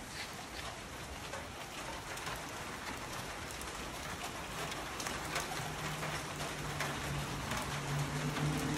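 Steady rain falling on wet pavement, with many small drop ticks. About halfway through a low steady hum comes in and grows louder toward the end.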